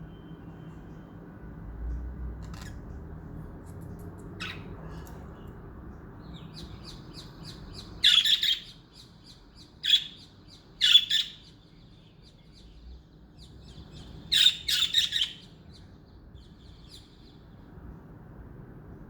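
Pet budgerigars chirping and twittering, with four loud bursts of sharp calls in the second half, over a low steady hum.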